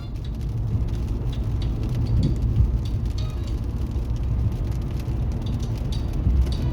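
Car driving on a motorway, heard from inside the cabin: a steady low rumble of tyres and engine, with many faint light ticks over it.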